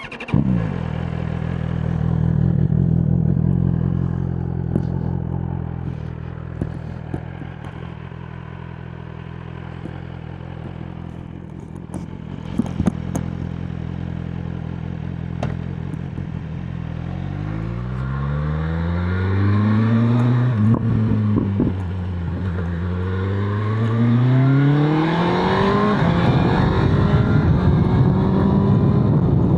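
BMW S1000RR inline-four engine firing up with a quick rev flare that settles to a steady idle. After about seventeen seconds the bike pulls away, the revs rising, dropping back at an upshift, rising again and dropping at a second shift near the end.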